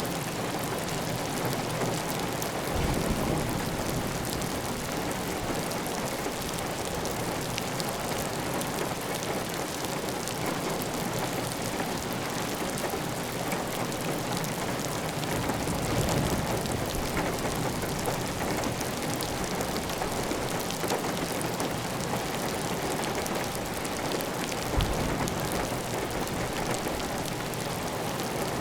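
Heavy rain drumming steadily on a tiled roof, with water running off the roof edge. The sound is dense and even, growing briefly louder and deeper a few times: about three seconds in, midway, and near the end.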